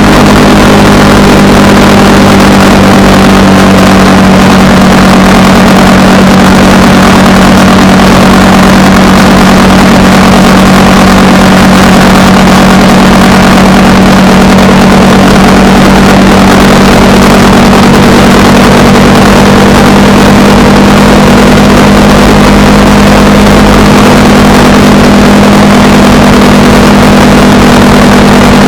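Honda Rebel 300 motorcycle's single-cylinder engine running at a steady cruise, its pitch holding even throughout, over a constant rush of wind and road noise.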